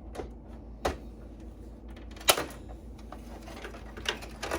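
A few separate sharp clicks and knocks of Dell Dimension 9100 desktop computer parts being handled during teardown, the loudest a little past two seconds in, over a low steady hum.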